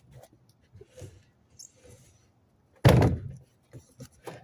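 A few light knocks and handling noises, then one heavy thud about three seconds in, the loudest sound, dying away quickly, with more small knocks after it.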